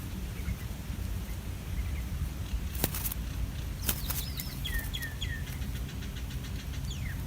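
Three short, quick chirps of a bird, each falling in pitch, about five seconds in, with another chirp near the end. A few sharp clicks come around three to four seconds in, over a steady low rumble.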